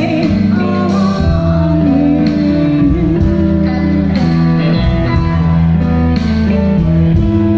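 Live blues band playing, the electric guitar to the fore with notes bent up and down over held bass notes.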